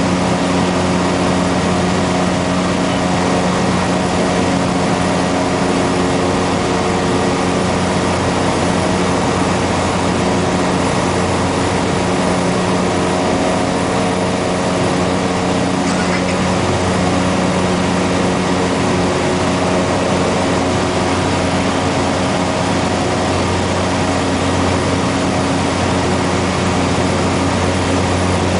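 Cessna Grand Caravan's single Pratt & Whitney PT6A turboprop engine and propeller running at steady power: a constant, unchanging hum over an even hiss.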